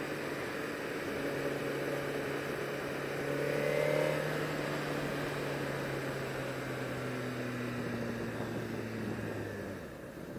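Sport bike engine running steadily with a wash of noise, rising briefly to a peak about four seconds in, then falling off near the end.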